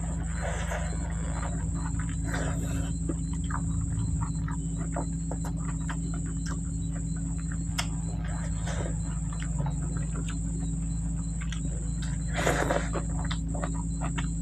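Close-miked eating: wet chewing clicks and lip smacks, and fingers squishing rice and curry together on a plate. A steady high whine and a low hum run underneath.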